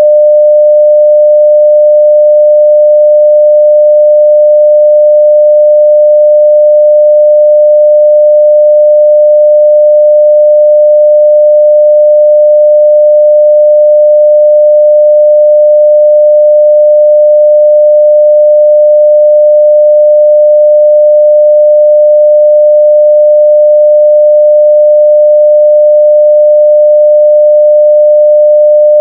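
A steady 600 Hz sine-wave test tone at full level, one pure pitch held without change.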